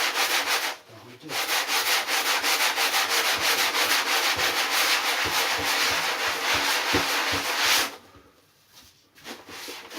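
Sandpaper on a hand sanding pad rubbed in quick, even back-and-forth strokes over the cured repair foam and wooden stringer of a surfboard. It pauses briefly about a second in, stops for over a second near the end, then starts again.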